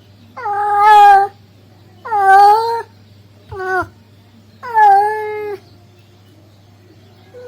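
Male cat calling for a female with drawn-out, yowling meows: four calls, three long ones of about a second and a short one in the middle. A faint steady low hum runs underneath.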